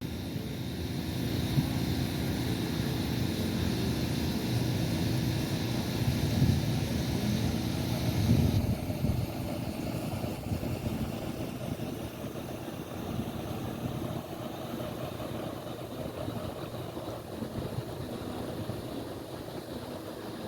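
Motorboat engine running steadily as a boat passes, louder in the first eight seconds, after which the sound changes suddenly to a quieter engine drone.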